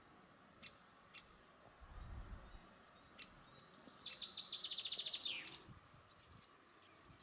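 A songbird singing: a few short high chirps, then about four seconds in a fast trill of rapid repeated notes that ends in a falling note, over a faint steady outdoor background.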